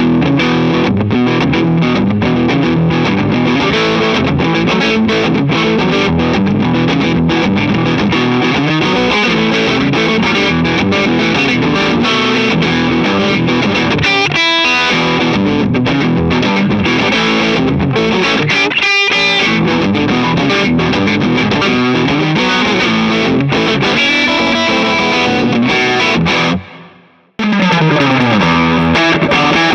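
Music led by an electric guitar played through distortion. It stops briefly about 27 seconds in, then starts again.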